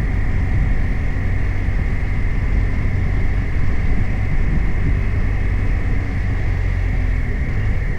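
BMW R 1250 RT's 1254 cc boxer twin running steadily while riding, over a steady rush of noise, with no clear rise or fall in revs.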